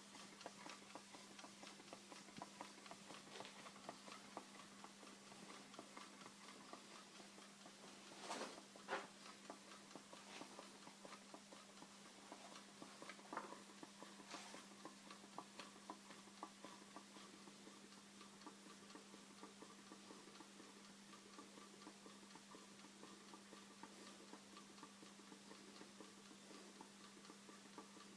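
Homemade can Stirling engine running at a slow idle on a single candle's heat, giving faint, regular ticking with a few louder clicks.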